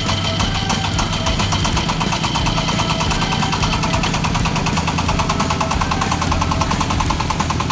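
Diesel engine of a mini self-loading concrete mixer running steadily with a rapid, even clatter.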